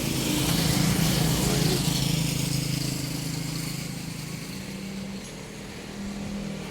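Engine of a passing motor vehicle running steadily, loudest about a second in and then fading, with the hum rising again near the end.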